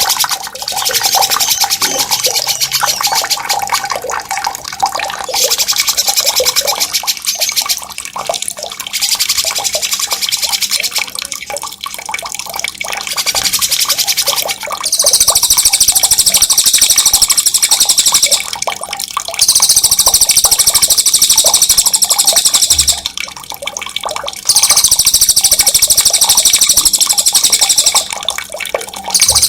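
A songbird's loud, high rolling trill, repeated in bursts of a few seconds each with short gaps between them. Running water sounds steadily underneath.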